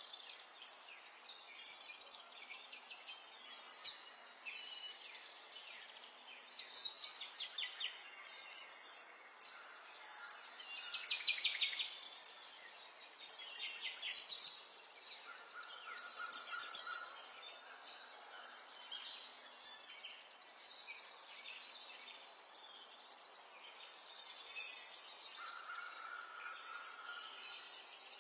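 Songbirds singing: high, fast trilling phrases of a second or two each, coming one after another, with a few short steady whistled notes, over a faint steady hiss.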